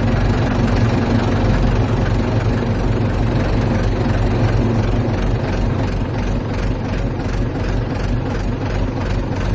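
Ford 755 backhoe's engine running steadily with a low, even hum.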